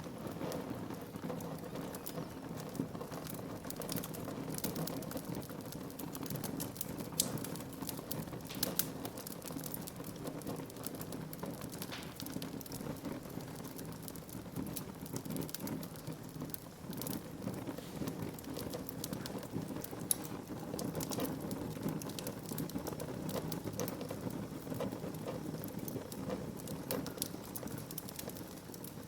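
Wood fire burning in a fireplace, crackling steadily with frequent small sharp pops and snaps over a low, even rush of flame.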